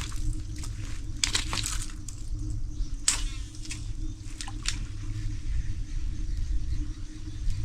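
Footsteps crunching through dry leaves and twigs on a woodland trail: a string of sharp crackles and rustles over the first five seconds, then fewer, over a steady low rumble.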